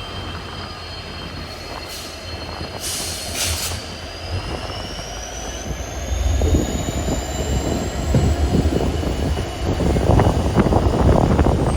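Passenger train running with its wheels squealing: high, steady squeal tones, one rising slowly in pitch, over rumble and rattling that grow louder about halfway through.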